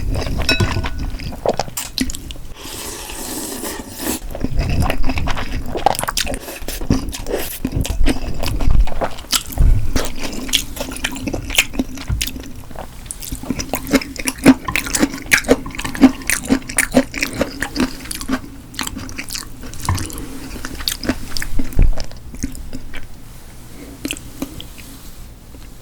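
Close-miked eating: chewing and wet mouth sounds with many sharp smacks and clicks, and some low thuds in the first half.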